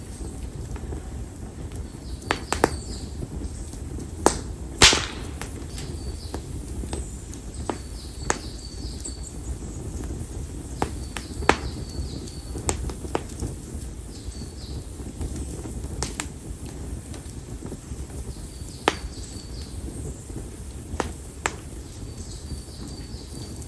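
Split konara oak firewood burning in an open fire, crackling with irregular sharp pops, the loudest about five seconds in, over a low steady rumble.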